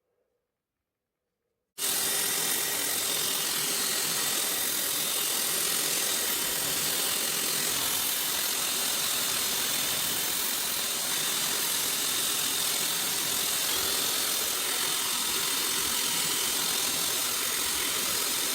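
Near silence, then about two seconds in a power grinder cuts in abruptly and runs steadily: a dense, even hiss with a faint steady whine, used to grind the tang of a high-carbon steel knife blade.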